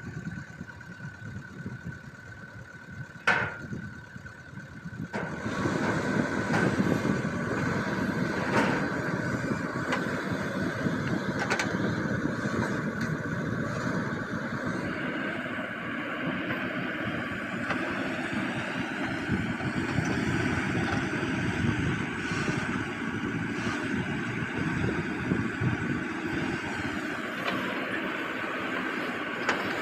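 A heavy machine's engine running steadily, with a sharp knock about three seconds in; it gets much louder about five seconds in and stays that way.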